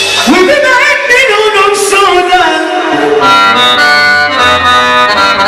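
Egyptian sha'bi wedding music led by an oriental keyboard in an accordion-like voice: a fast ornamented run that swoops up and winds down with pitch bends, then settles into held, repeating notes about three seconds in.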